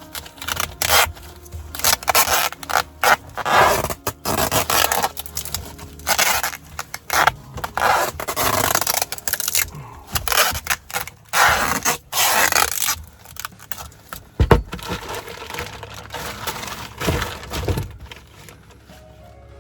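Repeated scraping and rubbing in irregular bursts as duct seams are worked on and sealed by hand, busiest for the first dozen seconds and sparser after that.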